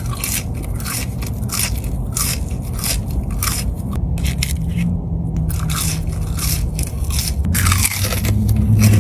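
Close-miked chewing of crispy fried food, Popeyes fries and fried chicken, with crunches repeating about two to three times a second.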